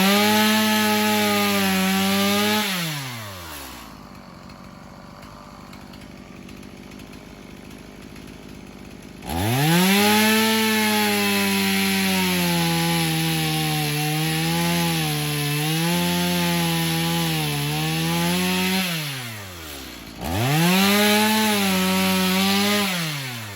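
Gas chainsaw at full throttle cutting into wood in three cuts: a short one at the start, a long one of about ten seconds in the middle, and a short one near the end. After each cut the engine drops back to a much quieter idle, its pitch falling away.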